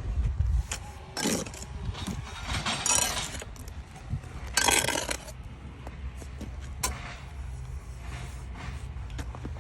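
Bricks clattering and scraping against one another in three short bursts, with scattered sharp clicks, over a steady low rumble.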